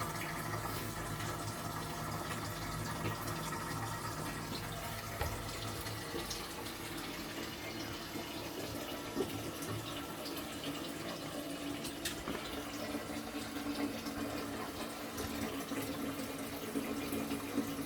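Twyford Option close-coupled toilet cistern refilling through its ball float fill valve after a flush: steady running, hissing water, with a low hum that grows stronger in the second half.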